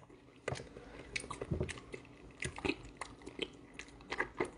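A person biting and chewing a raw octopus tentacle close to the microphone: irregular wet clicks and mouth smacks, several to the second.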